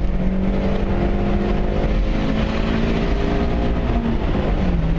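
Fiat Barchetta's 1.8-litre four-cylinder engine running at cruising speed, with wind rushing loudly past the open cockpit. The engine note climbs slowly, then drops near the end as the throttle eases.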